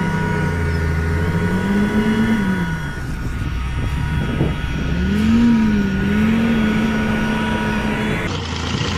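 Tractor engine running under load, its pitch rising and falling several times as it is revved. Near the end the sound cuts abruptly to another engine running more evenly.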